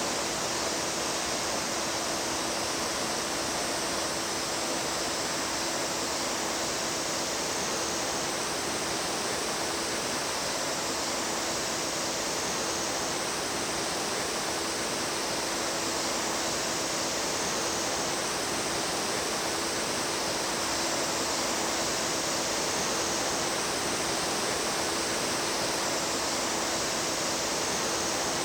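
Mountain stream water rushing and splashing steadily over rocks, with a faint steady low tone underneath.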